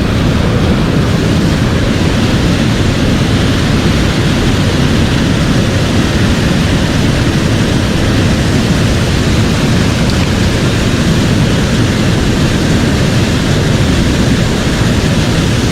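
Mountain stream rushing over rocks: a loud, steady, even water noise with no changes.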